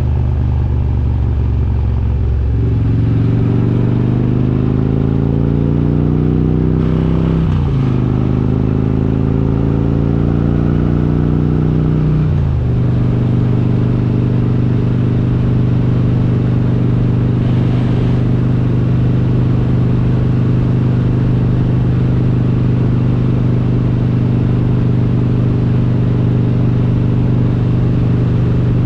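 Harley-Davidson Road King's V-twin, built to 95 cubic inches with an S&S kit and Super Stock heads, accelerating through the gears: its pitch climbs for a few seconds, drops at an upshift about seven and a half seconds in and again about twelve and a half seconds in, then holds steady at a cruise.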